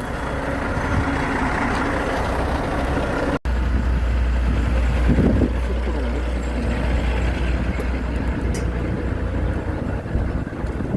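Truck running: a steady low engine rumble with road or machinery noise. It drops out for an instant about a third of the way in, and the rumble is heavier after that.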